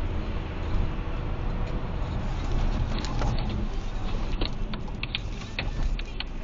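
A car driving, with a steady low rumble of engine and road. About halfway through comes a run of sharp clicks and knocks.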